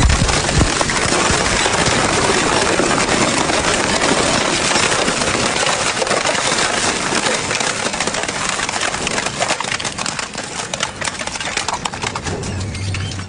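Double-shaft shredder running and chewing up material, a continuous grinding with dense crackling and snapping throughout.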